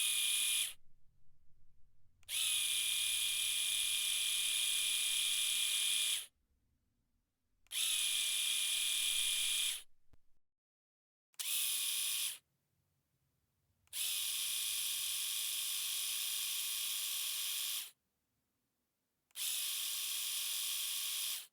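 Electric shaver running with a steady, even buzz, in six separate runs that each switch on and cut off abruptly. The pitch settles just after each start.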